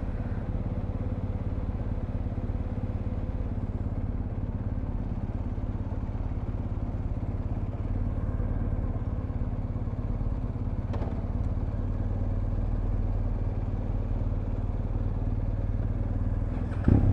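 Motorcycle engine idling steadily with a low, even rumble, and a single light click about eleven seconds in.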